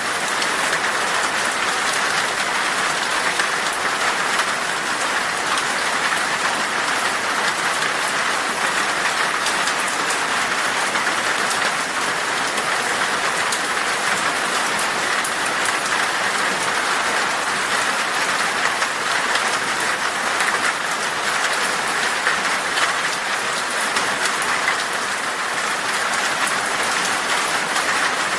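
Heavy rain falling steadily on glass, a dense even hiss of drops with fine ticking hits.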